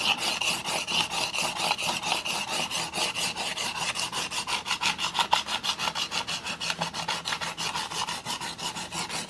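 Steel broadhead blade scraping back and forth on a 400-grit diamond sharpening plate, held in a roller sharpening guide, in quick, even strokes with no down pressure.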